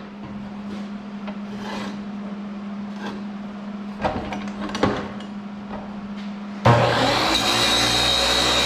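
A steady low hum with a few knocks from handling the workpiece, then about two-thirds of the way in a power tool starts suddenly and runs loudly with a high whine.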